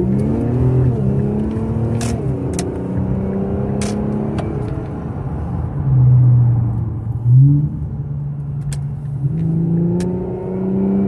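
2018 Infiniti Q50 3.0t's twin-turbo V6, breathing through a muffler-delete cat-back exhaust, accelerating hard; its note climbs and falls several times through the gear changes. A faint whistle rides on it, which the owner suspects could be normal turbo spool or a failing turbo bearing or seal.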